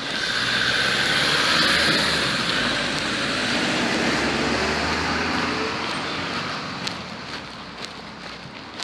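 Street traffic: a road vehicle passes close by, its engine and tyre noise swelling about two seconds in and fading away toward the end.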